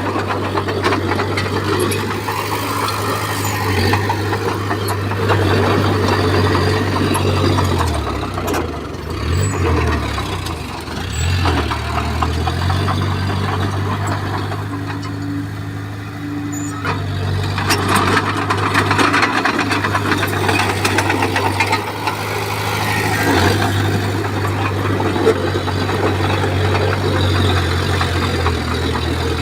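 Bulldozer's diesel engine running steadily, with its pitch dipping and wavering for a few seconds about eight to eleven seconds in.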